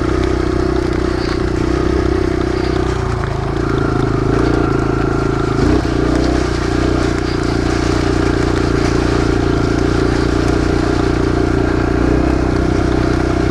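Kawasaki KLX140 dirt bike's small air-cooled four-stroke single-cylinder engine running steadily while riding, its note dipping briefly about three and a half seconds in.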